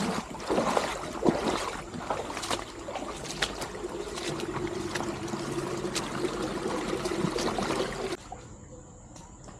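Trickling, running water with scattered sharp knocks. It drops off abruptly about eight seconds in.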